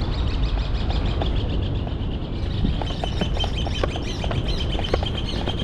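Wind rushing over the microphone of a moving bicycle, with scattered irregular ticks. From about halfway a high, steady trilling chirp joins in.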